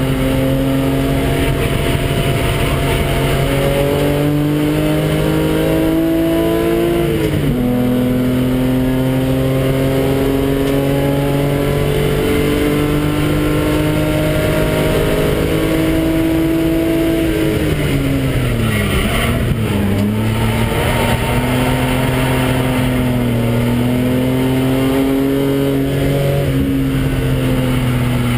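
Car engine heard from inside the cabin, pulling hard on a circuit lap. The pitch climbs steadily, drops sharply about seven seconds in as it shifts up, and climbs again. It falls away a little after halfway as the car slows for a corner, then pulls and rises again.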